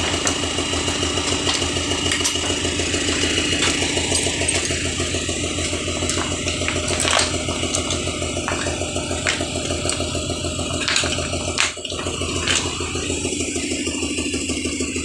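An engine idling steadily, with scattered sharp metallic clicks and knocks over it, one louder knock a little before the end.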